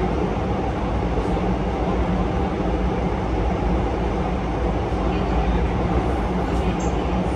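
Steady rumble of a Gyeongui–Jungang Line electric commuter train running on the track, heard from inside the passenger car.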